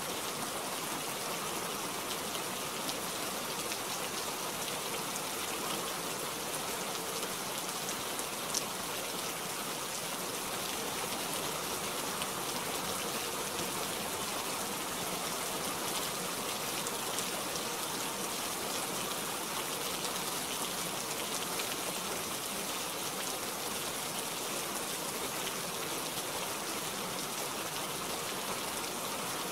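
Steady gentle rain, an even hiss with a scattering of single drop ticks.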